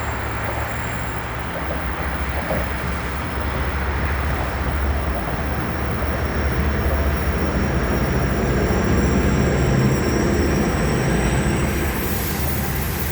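New Jersey Transit train moving through the station, a steady rumble of wheels on rail with faint high-pitched wheel squeal. The rumble grows louder toward a peak about ten seconds in, then eases slightly.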